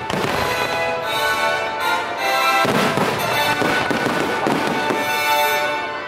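Fireworks bursting over patriotic music with sustained notes, the bursts thickest around the middle.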